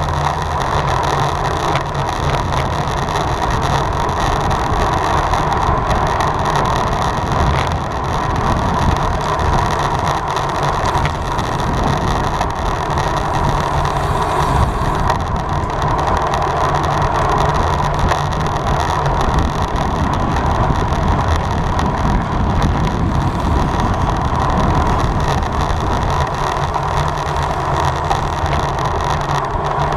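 Steady rush of wind and road noise from a road bicycle racing at speed.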